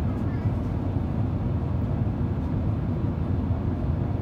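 Steady low cabin rumble inside an Airbus A350 in flight: its Rolls-Royce Trent XWB engines and the airflow around the fuselage.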